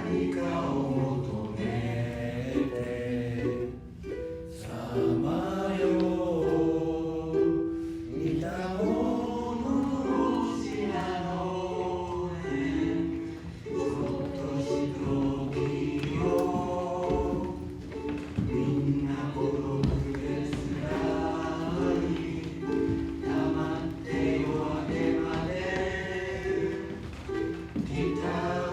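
A group of voices singing a song together in held, sustained notes.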